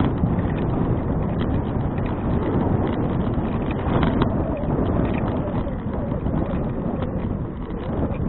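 Wind and road noise from a bicycle ride, a steady rush heaviest in the low end, with frequent irregular small clicks and rattles.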